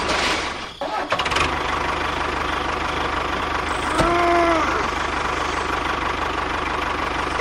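A small engine dips just before a second in, starts again and runs steadily with an even low chugging. A short pitched sound that rises and falls cuts in about four seconds in.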